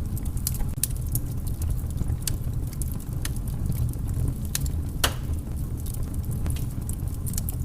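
Campfire crackling: scattered sharp pops and snaps over a steady low rumble, with one louder pop about five seconds in.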